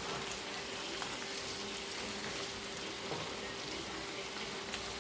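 Diced carrots, celery and onion sizzling steadily in hot oil and butter in a frying pan on high heat, with a faint steady hum underneath.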